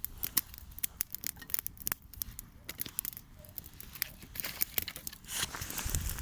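Dry wood crackling and snapping at a small campfire: many sharp, irregular clicks, with a louder rustle building near the end.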